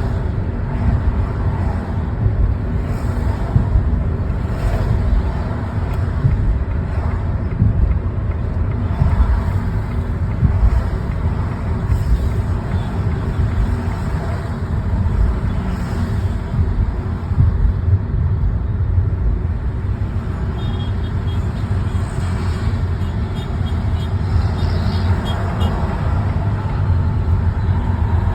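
Steady road and engine noise of a car driving through city traffic: a continuous low rumble with tyre and wind hiss.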